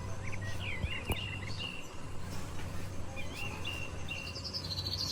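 Bird chirping in short warbling phrases, twice, over a steady low hum, with a couple of sharp clicks about a second in.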